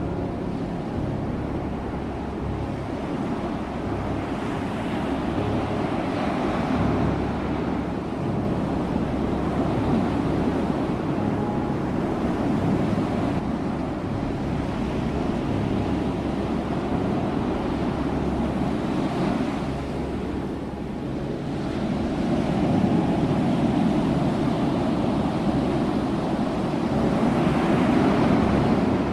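Ocean waves surging and washing on a shore, a steady rush that swells and ebbs every few seconds.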